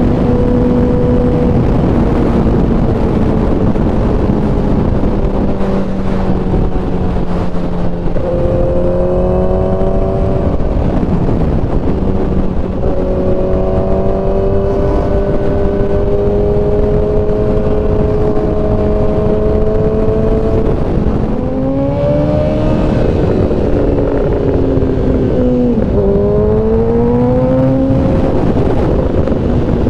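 Kawasaki ZX-10R's inline-four engine on the move, heard over heavy wind rush. The engine note holds fairly steady for long stretches and shifts pitch with the throttle: it steps up about 8 seconds in, climbs quickly about 21 seconds in, then dips sharply and climbs again near 26 seconds.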